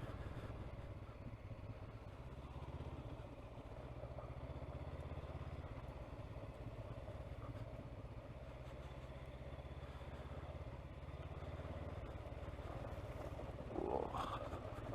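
Honda CB500X's parallel-twin engine running steadily at low revs, around 2,500 to 3,000 rpm, as the motorcycle is ridden along a rough track.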